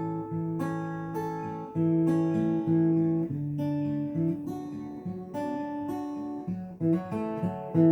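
Acoustic guitar music: unhurried chords plucked and strummed, each one left to ring into the next.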